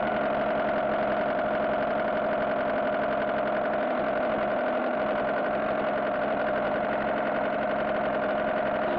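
Car engine idling steadily at an even level, a dubbed-in engine sound effect with a constant hum.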